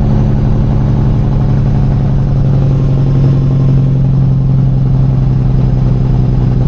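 Semi-truck's diesel engine running at a steady speed, heard from inside the cab as a loud, even drone that holds one pitch.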